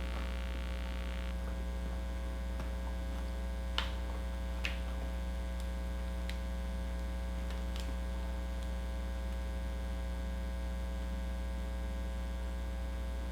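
Steady electrical mains hum, with a few faint sharp clicks between about four and eight seconds in.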